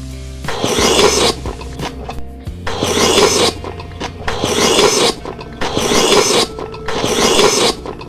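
Close-up crunching of crispy food being chewed, in five rasping bursts just under a second long at uneven intervals, over background music.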